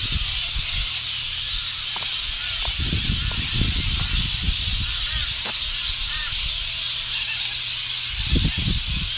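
Birds calling in short chirps over a steady high hiss, with low rumbles of wind buffeting the microphone.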